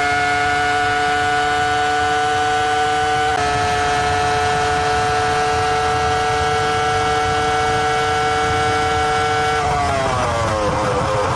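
Formula 1 V10 engine heard onboard, held at high, nearly constant revs, then the revs fall away near the end.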